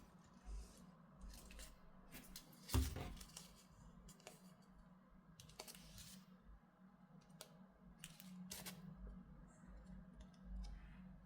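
Quiet handling sounds by hand: scattered light clicks and short rustles, the loudest rustle about three seconds in, over a low steady room hum.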